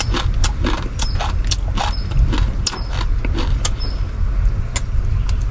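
Crunching of dry, uncooked instant noodles being eaten: a run of irregular sharp crackles over a steady low rumble.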